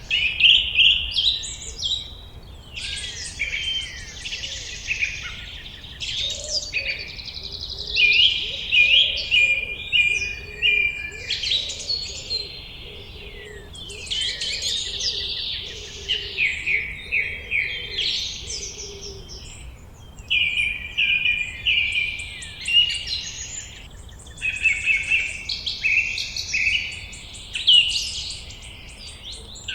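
Several songbirds singing in overlapping quick phrases of rapid, high chirps and trills, with a faint lower warbling call through the middle.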